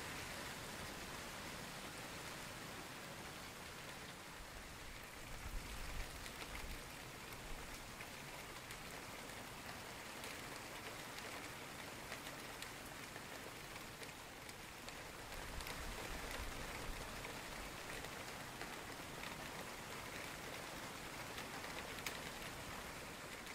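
Steady heavy rain falling on garden foliage and open water, a continuous hiss dotted with fine drop ticks, with two brief low rumbles about six and sixteen seconds in.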